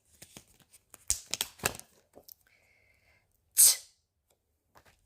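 A few sharp taps and rustles of phonics flashcards being handled about a second in, then a voice saying the pure phonics sound 't' as a single short, breathy puff of air.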